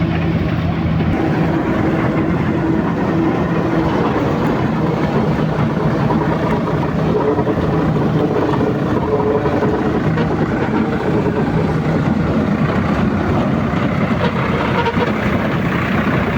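Heavy diesel machinery running steadily, with the engine note shifting now and then as it works.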